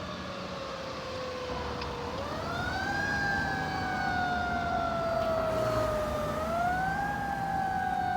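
Fire truck siren on the wail setting: each sweep rises quickly and then falls slowly, twice, over the rumble of the passing vehicle.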